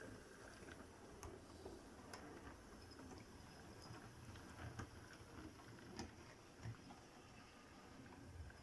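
Faint, irregular clicking of a model Q1 locomotive's wheels running slowly over rail joints and points on relaid track.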